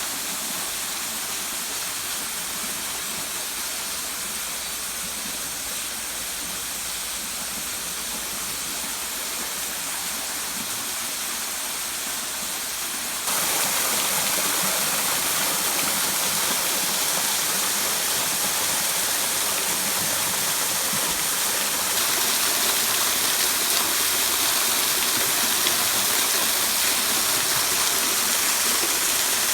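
Waterfall pouring in a steady rush of falling water, which gets suddenly louder about 13 seconds in and again about 22 seconds in.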